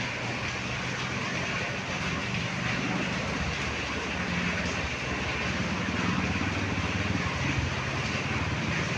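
Heavy rain pouring steadily, with a low hum underneath.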